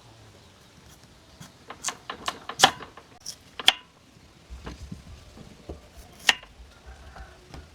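A run of irregular sharp clicks and knocks from hard objects being handled, bunched together about two to four seconds in, with one more loud knock a little after six seconds.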